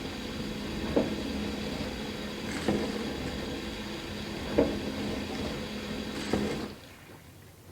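Dishwasher running: a steady motor hum with water spraying, and a surge or thump about every two seconds. About seven seconds in the pump cuts off and the sound drops sharply, leaving faint ticks and drips.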